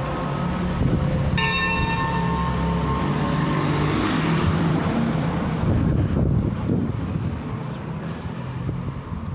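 Church bell ringing: a stroke about a second and a half in, its tones fading away over the next couple of seconds, over steady background noise.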